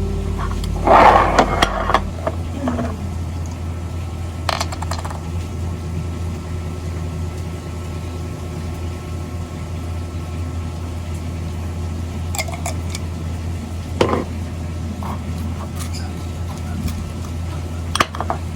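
A steady low hum with a few short handling noises over it: a scraping rustle about a second in, then occasional single knocks and clicks.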